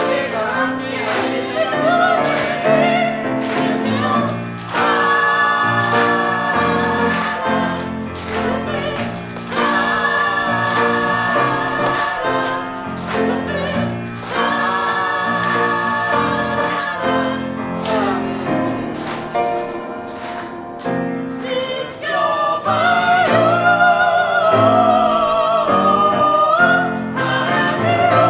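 Live ensemble performance: several voices singing together over instrumental accompaniment with a steady, regular beat, growing louder near the end.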